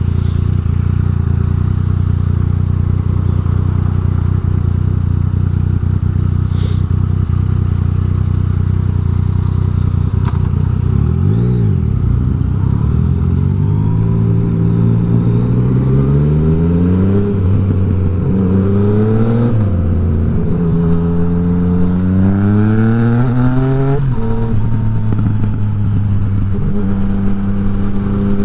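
Yamaha MT-09 three-cylinder engine through an Akrapovic exhaust with the dB killer removed: it runs at a steady idle, blips once about eleven seconds in, then climbs in pitch several times, each climb followed by a drop, before settling to a steady note near the end.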